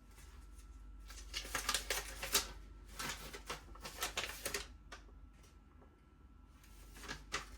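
Paper and plastic packaging of an RC car light kit being handled, in several short rustling bursts with small clicks.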